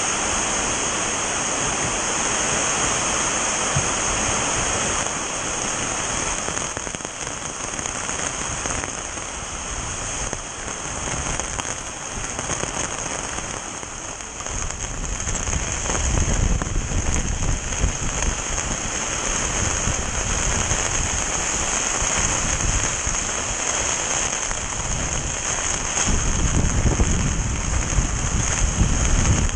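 Heavy rain pouring down in a sudden storm, a dense steady hiss. A deeper rumble swells in the second half and again near the end.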